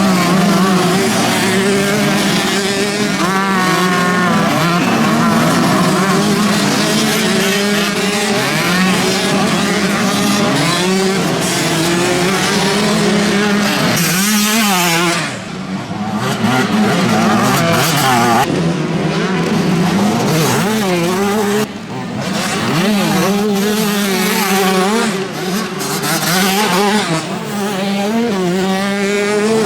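Several off-road motocross motorcycles racing, their engines revving up and down over one another as riders work the throttle around the track, with brief drops in loudness about halfway through and again a few seconds later.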